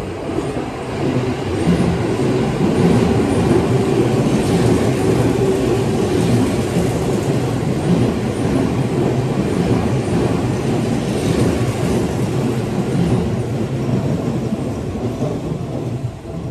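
Seibu 10000 series limited express electric train passing slowly through a station without stopping, its wheels rumbling on the rails. The sound builds over the first two seconds, holds steady as the cars go by, and drops away near the end as the last car clears.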